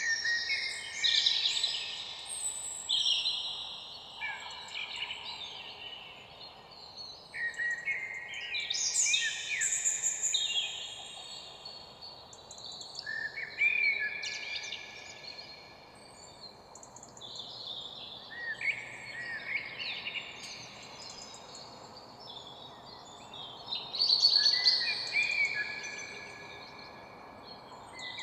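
Songbirds singing, several phrases overlapping one after another without a break, over a faint steady background hiss.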